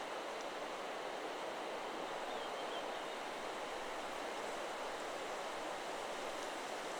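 Steady wind rustling through forest trees, with no chime strike heard, and a faint short bird call about two and a half seconds in.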